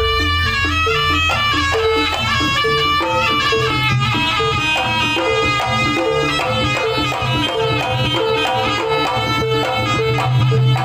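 Traditional Javanese jaranan music: a reedy melody line over steady drums.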